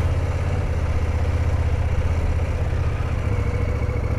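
Motorcycle engine running steadily at low revs, a constant low hum with no change in pitch.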